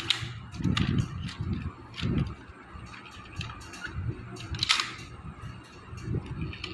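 Scattered sharp clicks and knocks of a plastic toy police car being handled, with low muffled bumps; the loudest click comes near the end.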